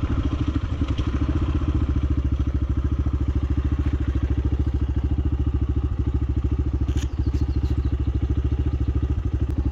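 Small single-cylinder motorcycle engine idling steadily at a standstill, with an even pulsing beat. There is one brief click about seven seconds in.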